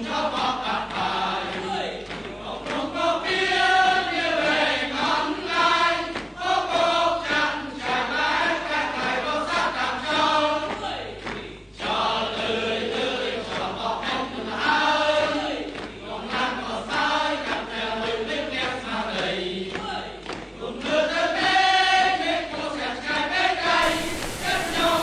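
Several voices singing together in long, rising and falling phrases, over a steady low hum.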